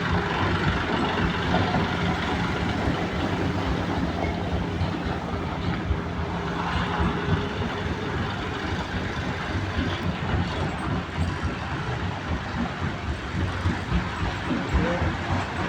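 Tractor engine running as it hauls a water tanker. A steady engine hum gives way to a rougher, more rattling sound about seven seconds in.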